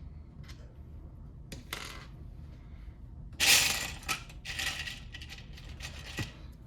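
Loose Lego bricks clattering and clicking against each other. There is a loud burst of rattling about three and a half seconds in, then scattered clicks.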